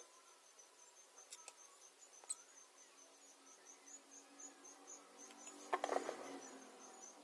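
Faint, high-pitched insect chirping, about five pulses a second and steady throughout, with a few light clicks and a short clatter near the end.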